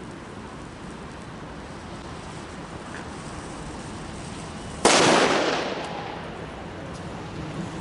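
A single loud firecracker bang about five seconds in, sudden, with an echo that dies away over about a second, after a stretch of low background noise.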